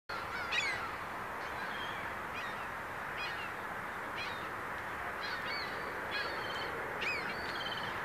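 Birds calling: a series of short, sharp, high cries, mostly falling in pitch, about one or two a second, some in quick stuttering runs, over a steady background hiss.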